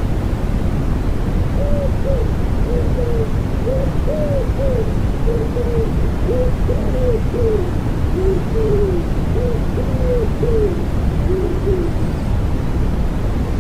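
Common wood pigeon cooing in repeated phrases of soft arching notes, from about two seconds in until near the end, over a steady low rushing of white noise.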